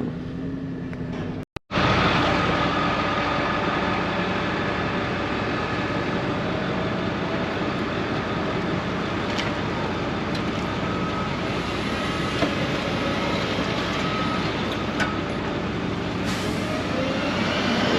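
Steady road noise of a moving vehicle, broken by a brief cut to silence about a second and a half in.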